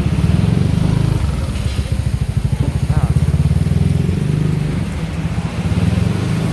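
Street traffic with motorcycle engines running close by, a loud low rumble that pulses throughout.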